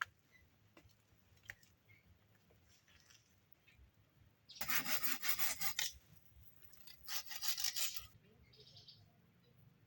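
Two bursts of rasping scraping, each a little over a second long, the first about halfway through and the second soon after.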